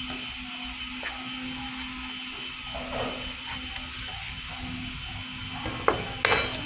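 Steady low hum with an even hiss, and two sharp clicks near the end.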